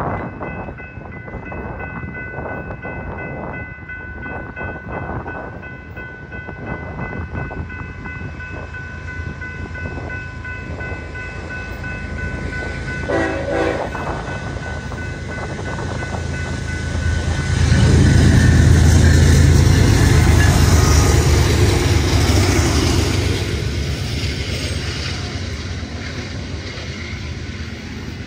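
Grade-crossing warning bells ringing steadily as a BNSF freight train approaches, with a brief train horn blast about halfway through. From about two-thirds of the way in, the lead GE ES44DC and trailing C44-9W diesel locomotives pass with a loud heavy rumble, followed by the rolling noise of double-stack intermodal well cars.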